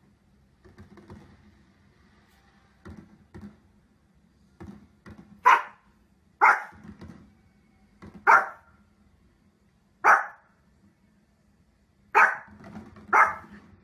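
A dog barking in single loud barks, one to two seconds apart, six of them from about five seconds in, after a few quieter short sounds.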